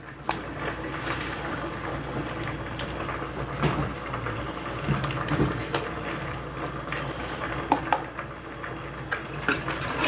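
Scattered clinks and knocks of kitchen utensils and containers against a steady background hiss, as a mustard and cheese sauce is worked in a pot on the stove, with another pot boiling.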